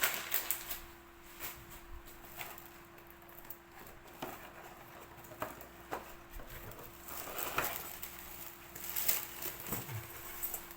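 Scattered light taps and rustles of objects being handled, over a faint steady hum.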